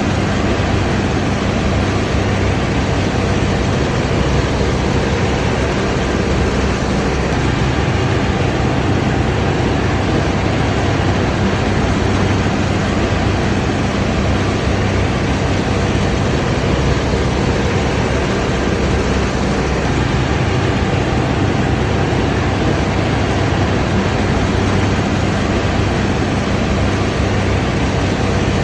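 Large combine harvester running steadily, its diesel engine hum under the constant rush of the threshing machinery.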